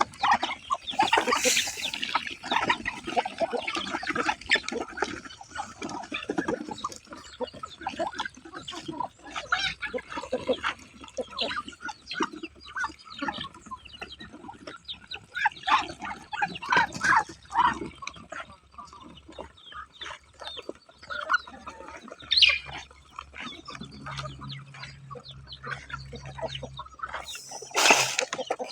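Chickens clucking, a busy run of many short calls with a few louder ones.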